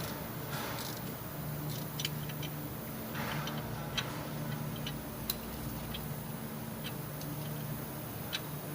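Scattered light, sharp clicks and taps, a few seconds apart, over a low steady hum that comes and goes.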